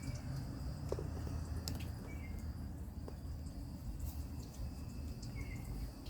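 Outdoor ambience: a steady high insect drone, a few short bird chirps and scattered light clicks over a constant low rumble.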